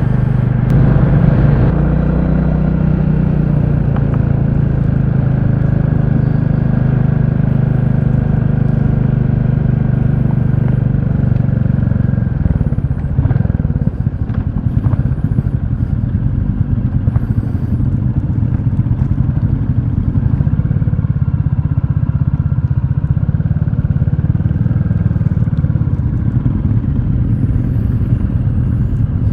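Royal Enfield Classic 350's single-cylinder engine running, with a steady tone for about twelve seconds and a rougher, noisier sound after that.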